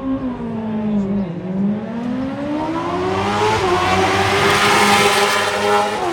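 Racing motorcycle engine dropping revs, then accelerating hard with a gear change about halfway through, growing louder as it passes close and falling off just before the end.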